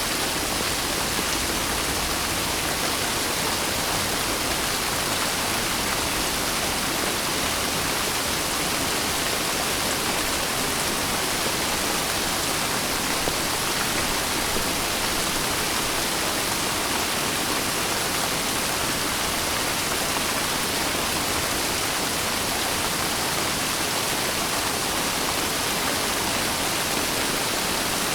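Steady heavy rain, a dense even hiss with no separate drops standing out and no change in level.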